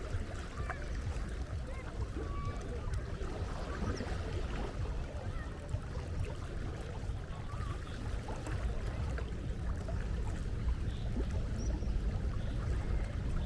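Seaside ambience: a steady low rumble with faint, scattered short calls above it.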